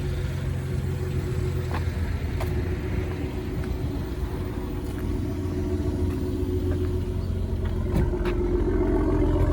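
BMW X5 engine idling steadily, a low even hum, running after a cold start. A few faint clicks sound over it.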